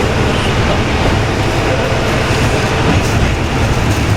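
KiHa 20 diesel railcar running, heard from inside the car: a steady low diesel engine drone mixed with wheel and rail noise.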